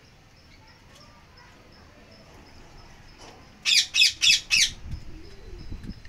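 A bird squawking four times in quick succession a little past halfway, each call a harsh, falling shriek. A few soft low thuds follow.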